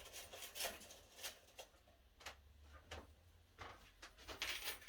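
Quiet handling noises: irregular light clicks and rustles as small items are picked up and moved about on a work table.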